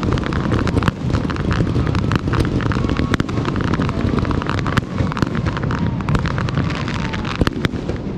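Aerial fireworks display going off in rapid succession: dense, irregular sharp cracks and bangs many times a second over a constant low rumble of booms.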